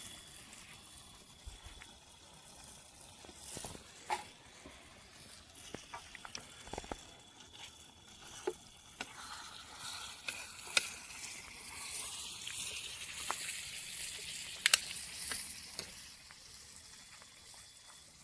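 Paneer gravy sizzling in a pan, with scattered sharp clicks; the sizzle grows louder about halfway through, then eases off near the end.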